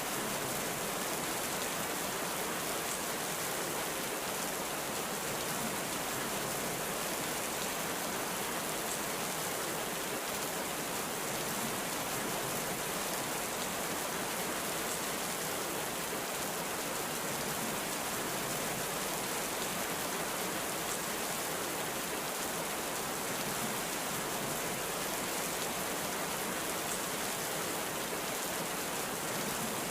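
Heavy rain falling steadily, an even hiss without let-up or thunder claps.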